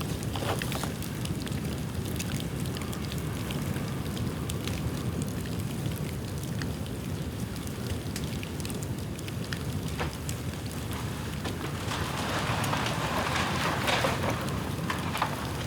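Dry bamboo burning in a bonfire: scattered sharp crackles and pops over a steady low rumble. The crackling thickens into a denser hiss about twelve seconds in, then eases off.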